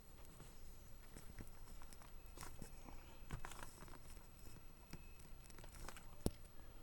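Faint scattered scrapes and small clicks of a pry tool working the glued-down battery out of an iPhone 5s, with one sharp click near the end.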